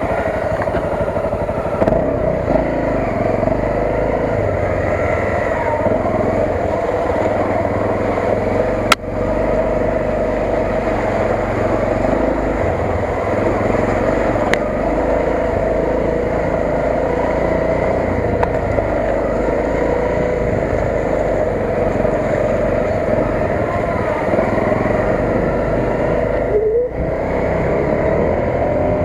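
Honda CRF250 dirt bike's single-cylinder four-stroke engine running steadily while riding. There is one sharp click about nine seconds in and a short dip in the engine sound near the end.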